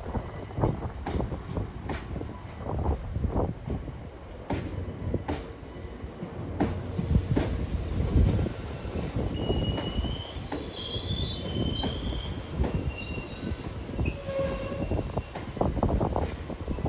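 Railway wagons rolling past, their wheels clicking over rail joints in a steady run, with high-pitched wheel squeal that shifts in pitch from about halfway through. A brief hiss comes shortly before the squeal starts.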